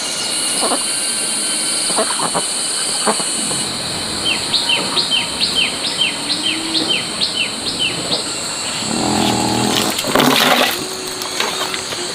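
A bird calling a quick series of about a dozen short, falling chirps over a steady high insect drone. Near the end a louder, lower-pitched sound comes in, with a rough noisy burst.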